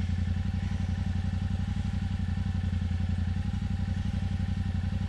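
Yamaha Ténéré 700's parallel-twin motorcycle engine idling steadily, with no revving.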